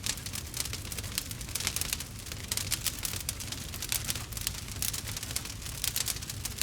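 Wood fire crackling steadily, with dense irregular snaps and pops over a low rumble.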